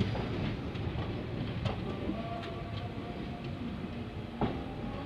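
Passenger train coaches rolling slowly along a station platform: a steady low rumble of wheels on rails with a few sharp clicks, and a faint thin squeal creeping in after about two seconds.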